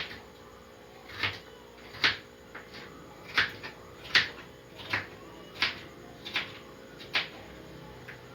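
Kitchen knife cutting potato and striking the board, about nine sharp knocks at a steady slow pace.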